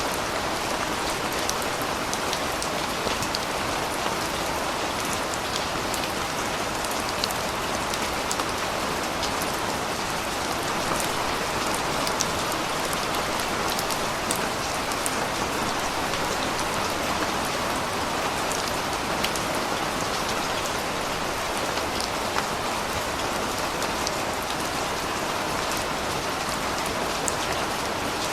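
Steady rain falling, an even hiss with many small drop ticks hitting a surface.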